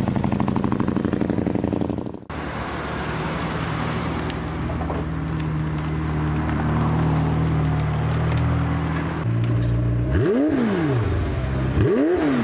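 Car engines running with a steady drone, then an engine revved twice near the end, its pitch rising and falling each time.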